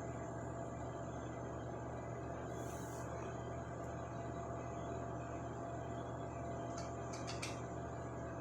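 Steady low background hum with a faint constant tone, broken only by a few faint light clicks about seven seconds in.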